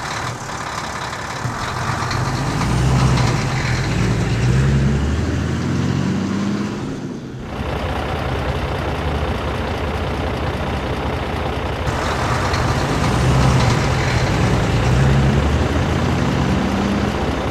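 Heavy vehicle engine running, its pitch rising and falling as it revs, with an abrupt change in the sound about seven seconds in.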